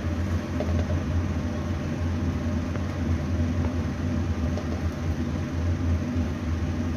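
Steady low machine hum with an even background hiss.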